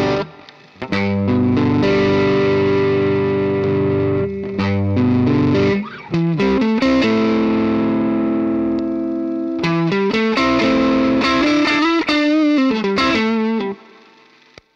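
Electric guitar played through a DemonFX Gravity effect pedal with distortion. It holds ringing chords with short breaks, then plays a quicker run of picked notes, stops near the end and rings down.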